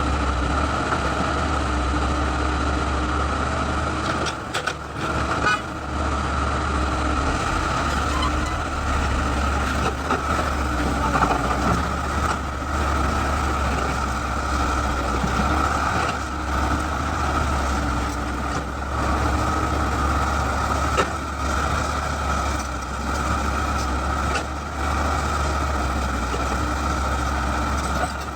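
Excavator's diesel engine running steadily with a low hum and a steady high whine, with a few brief knocks now and then.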